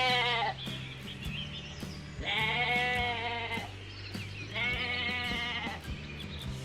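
Sheep bleating three times, each call about a second long with a wavering pitch, over background music with low sustained notes and a ticking beat.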